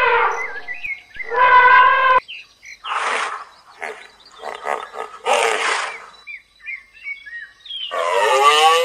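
Wild animal calls with birds chirping: a short trumpet-like call about a second and a half in, then a run of harsh breathy snorts, and a long wavering pitched call near the end. Small birds chirp in between.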